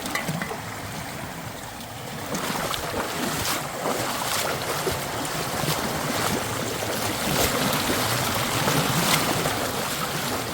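Creek water rushing and splashing, growing louder about two seconds in, with a few scattered sharp knocks.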